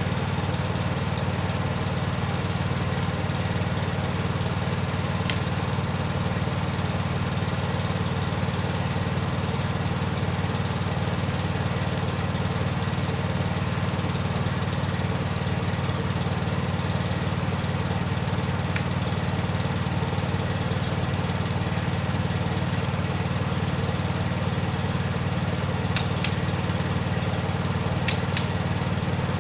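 Steady low hum of a machine or engine running, with a few short sharp clicks: two close pairs near the end.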